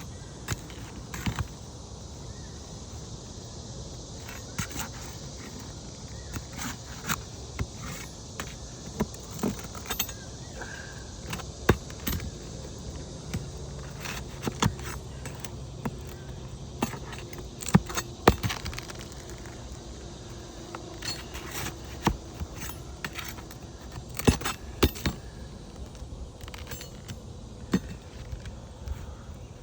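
Metal roofing pry bar and snake bar working asphalt shingles: irregular clinks, taps and knocks of steel on shingles and nails, a few sharper than the rest, over a steady high hiss.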